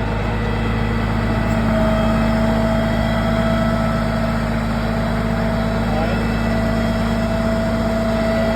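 A truck engine idling steadily at a constant speed, with no revving.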